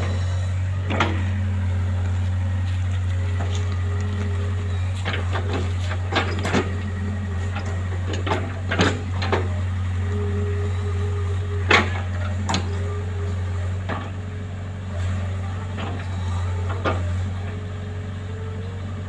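Engine running at a steady speed with a constant low hum, with scattered sharp knocks and clatters on top.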